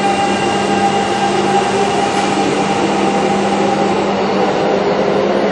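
Kintetsu commuter train running along an underground station platform: a steady rumble of wheels on rail with a steady electrical hum. The sound echoes strongly in the underground station.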